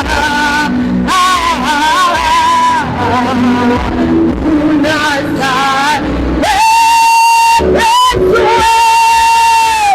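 Swahili gospel worship song: singing with band accompaniment, ending in a long held note over the last few seconds.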